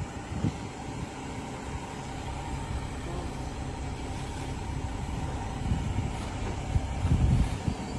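Garbage truck engine running with a steady low rumble, growing louder about seven seconds in.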